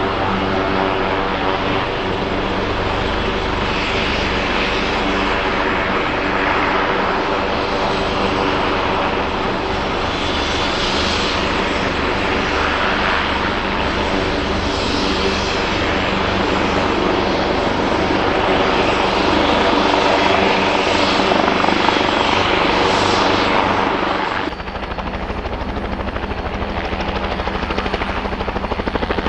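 Helicopter running close by: a steady stack of engine and rotor tones under a rushing noise that swells and fades every few seconds. Near the end the sound changes abruptly to a different, lower rotor beat.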